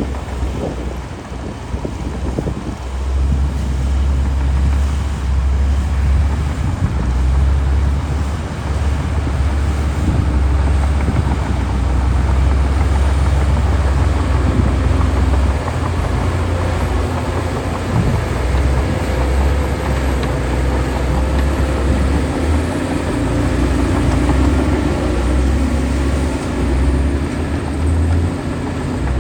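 Shantui DH17C2 bulldozer's diesel engine running steadily with a deep rumble, its engine note shifting up and down a few times.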